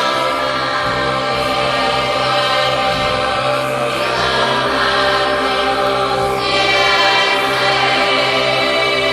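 Throat singing: a steady low drone with a dense stack of overtones held without a break.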